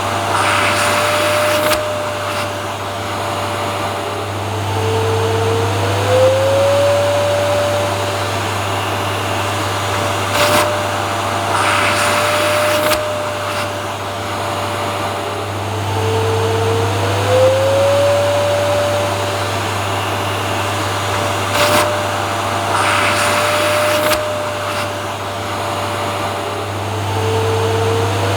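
Vacuum cleaner running continuously with a steady hum and whine. About every eleven seconds the whine drops in pitch and glides back up, and a short burst of hiss with a knock comes in between. The same stretch repeats as a loop.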